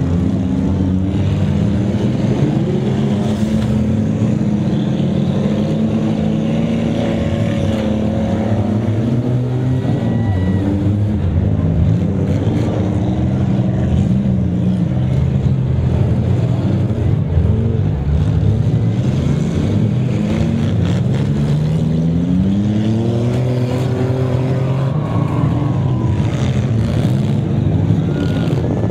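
Several six-cylinder demolition derby car engines running hard, their pitch repeatedly rising and falling as the cars rev, accelerate and back up, with occasional sharp bangs of cars colliding.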